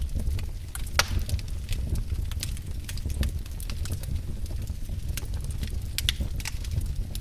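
Wood fire in a fireplace crackling, with irregular sharp pops, the loudest about a second in, over a steady low rumble.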